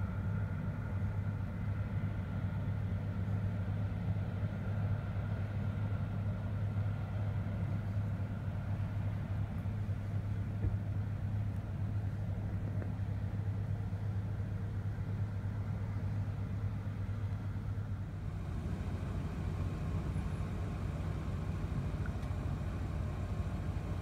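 A vehicle engine idling steadily, a low even hum, its tone shifting slightly about three-quarters of the way through.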